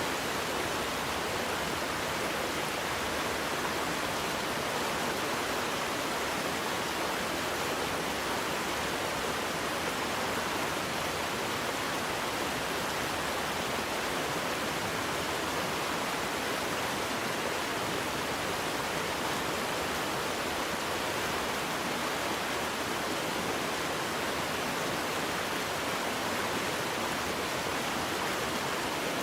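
Waterfall: a steady, unbroken rush of falling water with no distinct splashes or changes.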